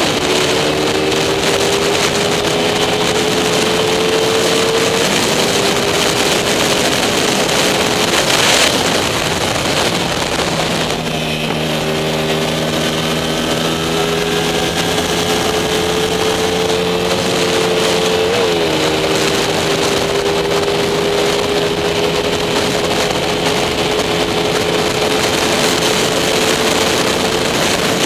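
Small-capacity racing motorcycle engine heard onboard, running hard at high revs under a constant rush of wind. The pitch drops for a few seconds about ten seconds in, then climbs again, with a brief dip near 18 seconds.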